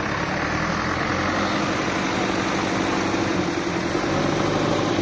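Heavy diesel engine of construction machinery running steadily, its note building slightly toward the end.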